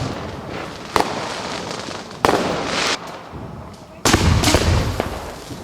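Fireworks going off. Sharp bangs come about a second in and again just after two seconds, the second followed by a crackling hiss. About four seconds in there is a heavy, deep boom whose rumble trails away.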